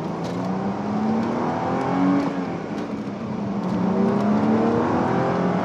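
Supercharged 3.2-litre V6 of a Chrysler Crossfire SRT-6 with AMG exhaust accelerating hard under a 6-speed manual, heard from inside the car. Revs climb, drop at a gear change about two seconds in, then climb again.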